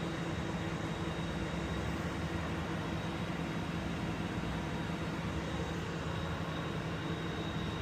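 Steady mechanical drone of an engine running, with a low rumble and a thin, steady high whine over it.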